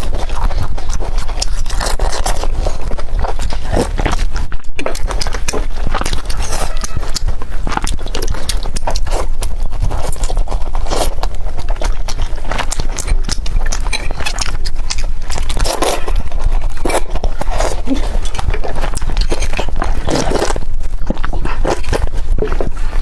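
Close-miked eating sounds of youtiao (Chinese fried dough sticks), crisp outside and soft inside: a continuous run of bites, crunches and wet chewing clicks over a steady low hum.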